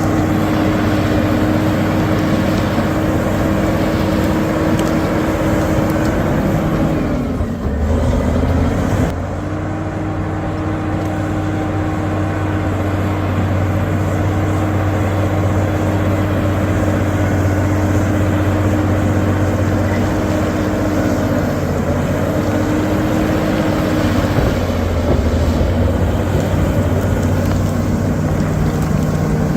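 Bulldozer's diesel engine running steadily at high revs. Its pitch sags and recovers about eight seconds in, with smaller dips later on.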